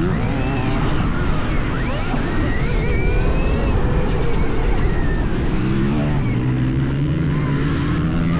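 Stark Varg 80 hp electric motocross bike being ridden: its motor's whine glides up and down with the throttle over steady low noise. A lower steady hum comes in about six seconds in.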